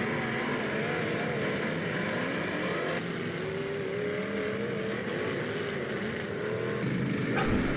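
Demolition derby cars' engines running and revving, the pitch wavering up and down and climbing gently midway.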